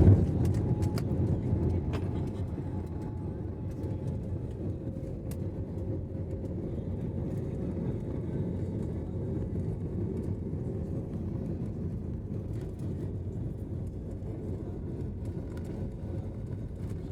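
Aeroplane taking off: a steady low rumble with a faint steady hum above it, loudest at the start and easing slightly over the following seconds.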